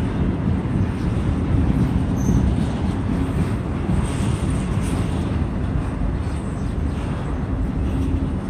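Freight train of autorack cars rolling slowly past: a steady low noise of steel wheels on the rails, with a few faint clicks.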